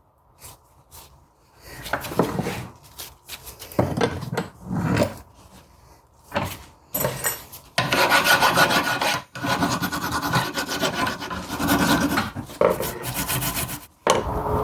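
Steel brake caliper bracket being scraped and scrubbed clean: short separate strokes at first, then fast continuous rasping for about six seconds that stops abruptly near the end.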